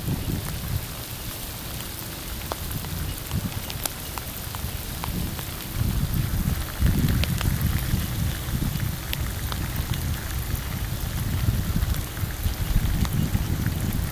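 Rain falling, with many separate drops pattering, over a strong low rumble that grows louder about six seconds in.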